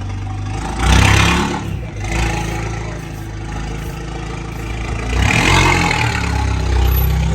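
A car engine running, with two louder revving surges, about a second in and again around five seconds in.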